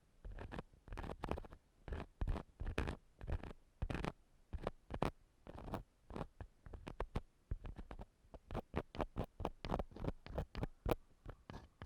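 Ear-cleaning tools, a metal ear pick or cotton swab, scratching and rubbing inside a microphone's ear in quick, irregular strokes that come faster in the second half.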